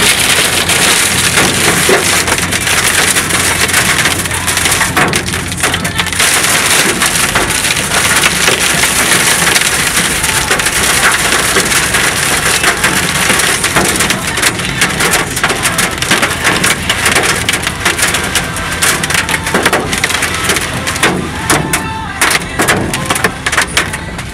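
Torrential storm rain pounding on a car's roof and windshield, heard from inside the car: a loud, dense roar of drops with countless sharp individual hits, easing a little near the end.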